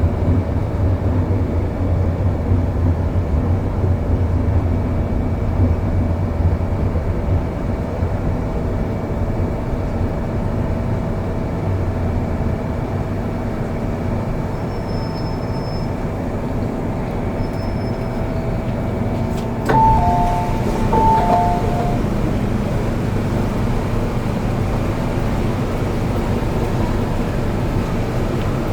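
MTR M-Train electric multiple unit running on the Kwun Tong Line, heard from inside the car: a steady rumble of wheels on rail and traction equipment, with the deep part of the rumble easing after about twelve seconds. About twenty seconds in there is a click, then a short two-note chime sounds twice.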